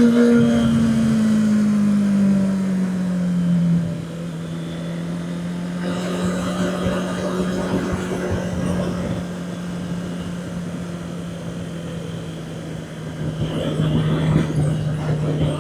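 Honda CB650R's inline-four engine easing off, its pitch falling over the first few seconds, then running at steady revs and picking up slightly near the end.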